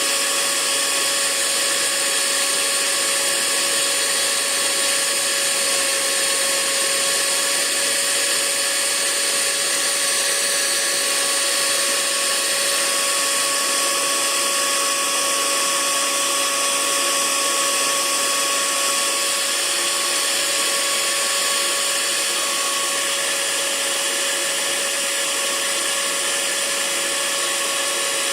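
Hair dryer running steadily: a constant blowing rush with a steady motor whine.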